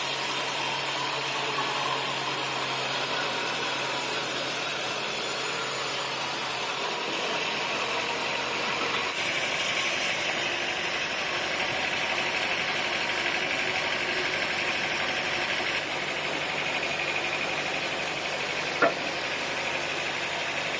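Sawmill machinery running steadily, an even mechanical drone with a single sharp knock near the end.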